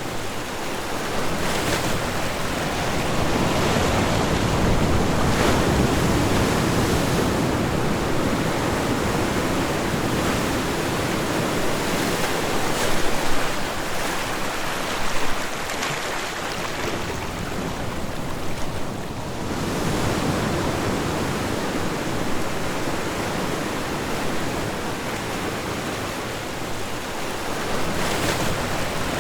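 Ocean waves washing onto a shore, the surf swelling and ebbing in slow surges over several seconds.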